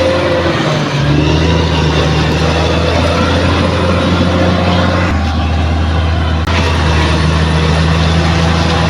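Bulldozer's diesel engine running steadily at a heavy, even drone, with mechanical clatter over it; the clatter drops away for about a second and a half around five seconds in, then returns.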